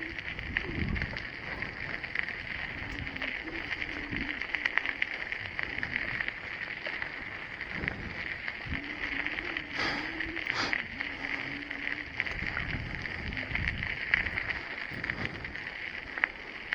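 A bicycle being ridden: a steady rolling and drivetrain noise, with scattered knocks from the bike over the ground.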